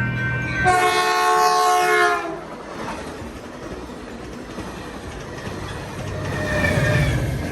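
Train horn sounding a long chord, then a louder chord that falls slightly in pitch as the train passes, giving way after about two seconds to the steady rumble and clatter of the train rolling by, with the horn faintly again near the end.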